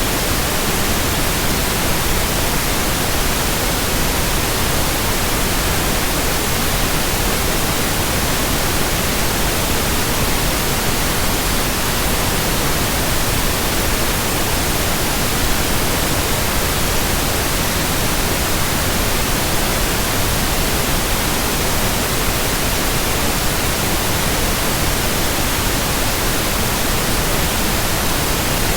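Steady, even hiss of white noise spread across the whole range from deep to very high, with no rhythm, tones or changes.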